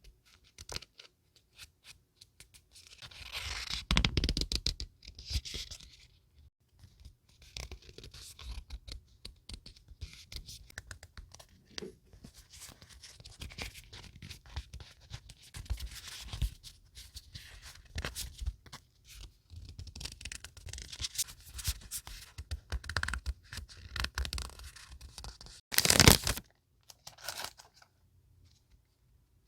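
Paper scrapbooking materials being handled at close range, with irregular short rustles. They are louder around four seconds in and once sharply near the end.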